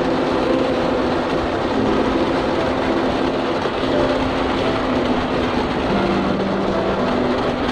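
Snow-plow truck driving: a steady engine and road rumble, its engine tones shifting in pitch a few times.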